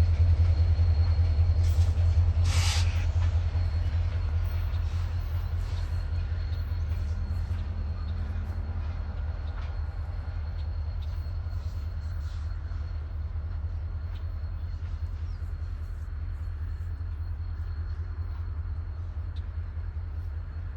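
Diesel locomotives rumbling past with a steady low engine throb that slowly fades as they move away. A short hiss about two and a half seconds in.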